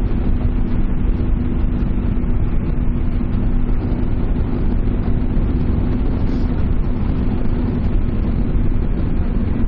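Honda XL125V Varadero's 125 cc V-twin engine running at a steady cruising speed, with a constant low drone, heard over heavy wind rumble on the helmet or handlebar microphone.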